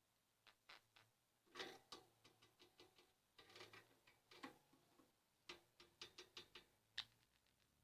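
Near silence broken by faint, scattered short clicks and soft chirp-like ticks from pet budgerigars, about a dozen spread irregularly.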